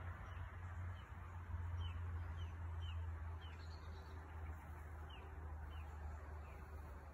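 A bird calling repeatedly with short, high chirps, each dropping in pitch, about two a second, over a steady low rumble.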